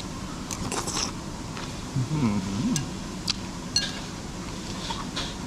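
Light clicks and clinks of utensils on dishes, a handful of sharp small taps scattered through, over steady restaurant room noise, with a brief voice in the background about two seconds in.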